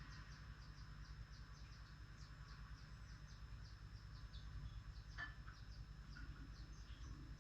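Faint small-bird chirping: quick, short, high chirps repeating a few times a second over a steady soft noise, with one louder call about five seconds in.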